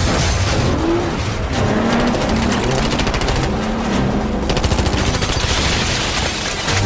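Rapid automatic gunfire: long bursts of closely spaced shots, a film sound-effects mix from a car chase.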